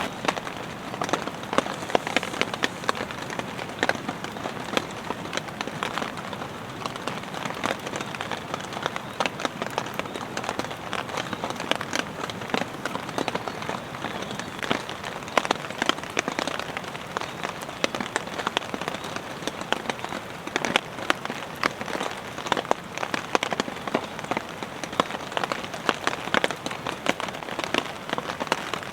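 Steady rain, with many individual drops tapping sharply and irregularly on a nearby surface.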